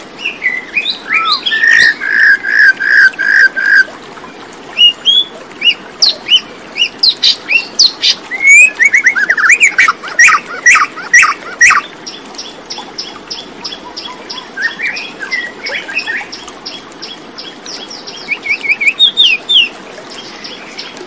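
Several birds singing and chirping at once: quick repeated notes, short down-slurred chirps and a fast high trill through the second half, over a faint steady outdoor hiss.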